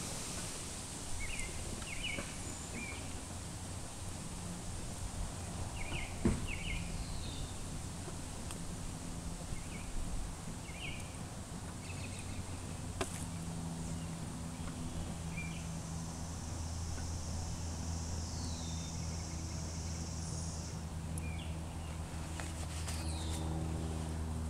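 Birds chirping in short, scattered calls over a steady low hum that grows slightly louder near the end. A high buzzing trill runs for about five seconds past the middle, with a few faint clicks.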